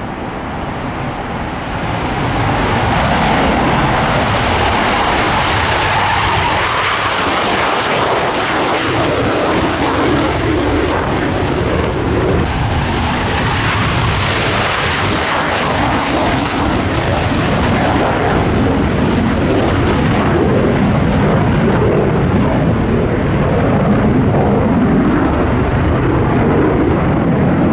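Military jet aircraft engines running loud. The roar grows about two seconds in and then holds steady, with a faint rising whine partway through.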